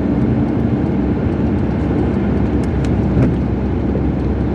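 Steady low drone of a car on the move, engine hum and road noise.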